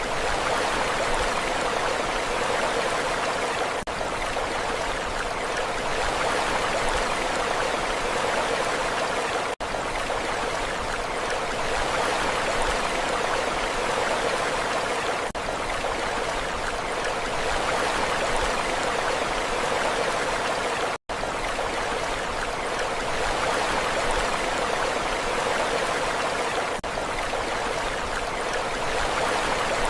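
Steady rushing water, an even hiss without the rise and fall of breaking waves, broken by very short dips about every six seconds and a momentary gap a little past two-thirds of the way through.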